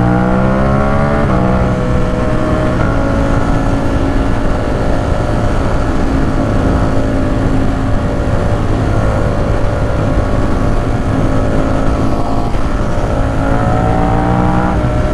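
Ducati Supersport 950 S's 937 cc L-twin engine heard from the moving bike. The revs climb, then drop with an upshift about a second in, and it holds a steady cruise with wind noise on the microphone. It begins to rev up again near the end.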